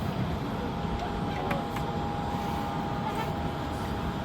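Wind buffeting the microphone: a steady low rumbling rush, with a thin steady whine faintly above it.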